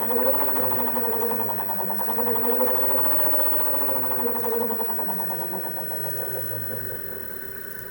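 2020 Zero DSR electric motorcycle's drive motor running up and back down in pitch with the throttle, with a fast rhythmic hammering through it, easing off near the end. The owner suspects a worn motor bearing, saying it sounds like loose balls rolling in a bearing race.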